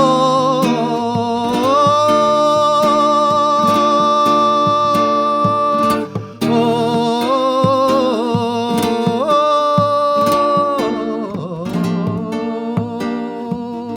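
Flamenco-style slow bulería performance: a voice holds two long wordless notes with a wavering vibrato over plucked acoustic guitar. Near the end the voice drops out and the guitar carries on alone.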